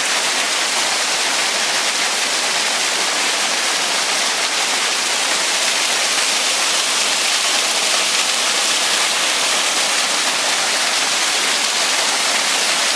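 Waterfall of cascading drops, about 20 feet in all, rushing with a loud, steady roar of falling water.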